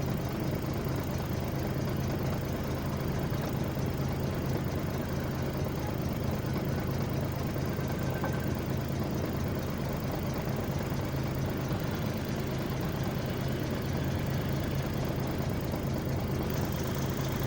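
Heavy vehicle engine running steadily at a constant low speed, an even drone with no revving.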